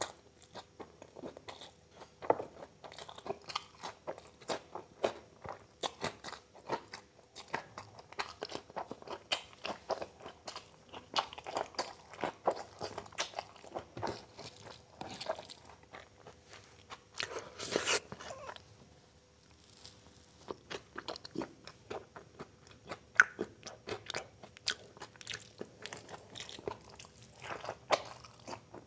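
Close-up chewing and lip-smacking of a mouthful of oily mutton curry, chow mein and fresh coriander, eaten by hand: a steady run of many short wet clicks and crunches, with one louder burst about eighteen seconds in and a brief lull just after.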